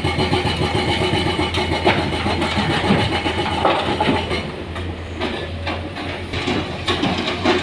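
Truck engine running steadily, with irregular knocks and clatter over it.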